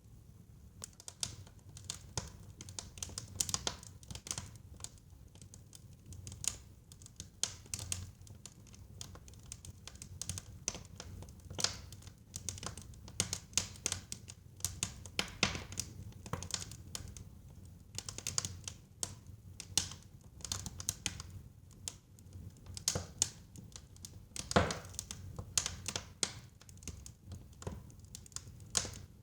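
Wood fire crackling in a fireplace: irregular sharp pops and snaps, in thick clusters at times, over a low rumble of burning, with one louder pop a little before the end.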